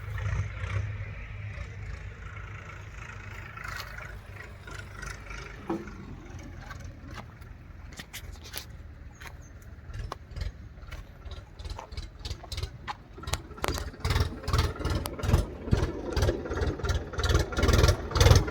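HMT 4922 tractor's diesel engine running with a low, pulsing beat that grows louder in the last few seconds.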